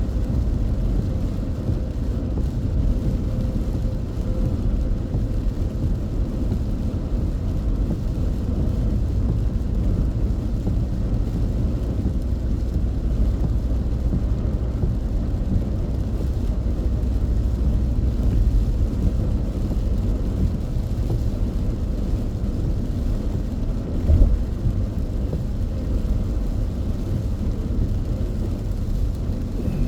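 Steady low rumble of a car driving on a rain-soaked expressway, road and tyre noise heard from inside the cabin. A single brief thump comes about four-fifths of the way through.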